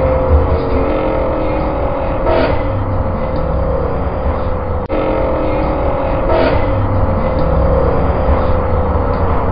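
Car engine running at road speed, its pitch slowly falling, over a steady low rumble of road noise, with two brief surges of noise about two and six seconds in.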